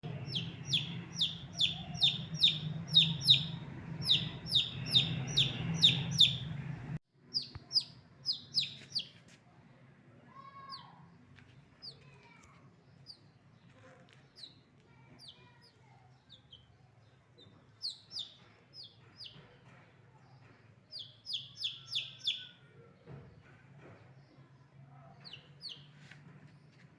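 Baby chicks peeping: runs of quick, high, downward-sliding peeps, about four a second. The first seven seconds are loudest, over a low steady hum. After an abrupt cut the peeps come quieter, in scattered runs.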